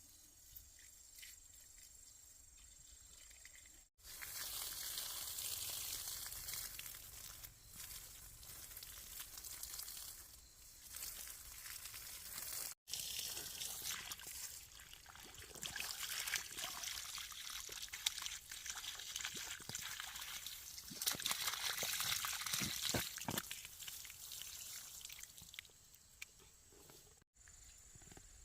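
Water pouring and splashing, starting abruptly about 4 seconds in and broken by a sudden cut about 13 seconds in, then stopping near the end.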